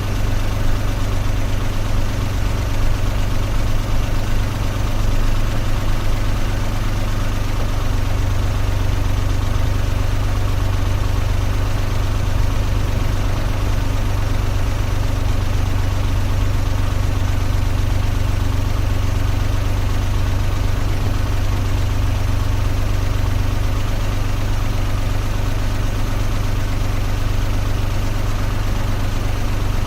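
Car engine idling: a steady, unchanging low hum.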